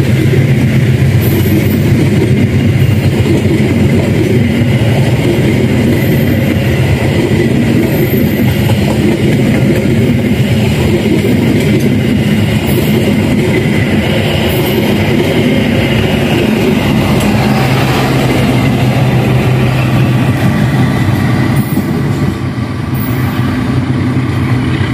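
Stainless-steel passenger carriages of a train rolling past close by: a steady, loud rumble of steel wheels on the rails, easing a little near the end.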